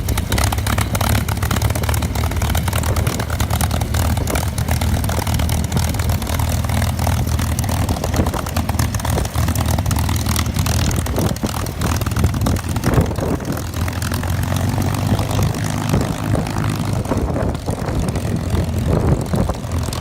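P-51D Mustang's Merlin V-12 engine running steadily at low power as the fighter taxis toward the runway, a deep, even drone.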